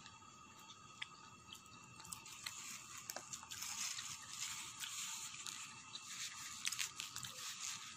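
A person biting and chewing a slice of pizza, a run of small crackling mouth sounds that gets busier about two seconds in.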